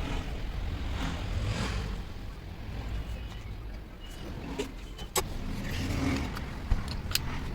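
Low, steady rumble of a running vehicle or motor, with a few sharp clicks in the second half.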